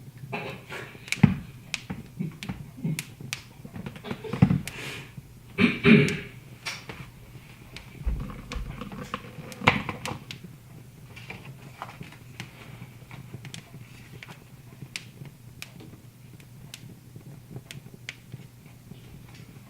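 Wood fire crackling, with sharp pops scattered all through and a steady low hum underneath. Several louder knocks and rustling bursts come in the first half.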